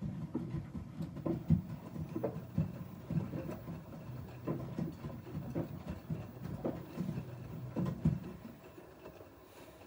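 Front-loading washing machines in a wash cycle: the drum turning with wet laundry tumbling and water sloshing, giving irregular low thuds over a steady motor hum. The thuds die down in the last second or so as the drum slows.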